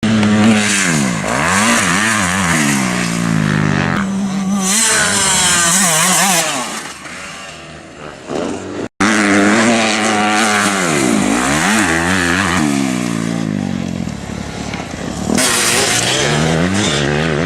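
Motocross bike engines running hard, their pitch repeatedly rising and falling as the riders open the throttle and shift gears. The sound fades briefly past seven seconds and cuts out for an instant near nine seconds before returning at full level.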